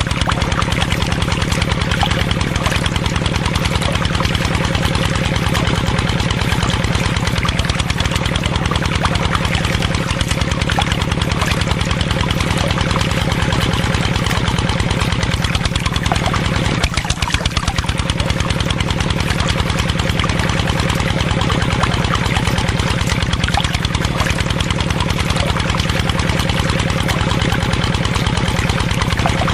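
Small engine of a miniature DIY tractor running steadily with a fast, even beat. It dips briefly about two-thirds of the way through.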